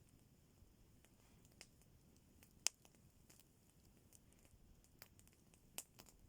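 Faint campfire crackling: scattered small snaps, with a sharper pop about two and a half seconds in and another near the end.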